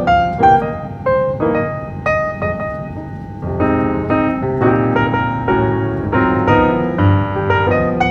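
Piano music, a melody of separate notes over chords.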